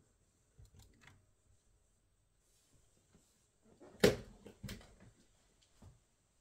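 A few sharp clicks and knocks of small hard objects being handled: faint ones about a second in, a loud knock about four seconds in, another just after it and a lighter one near the end.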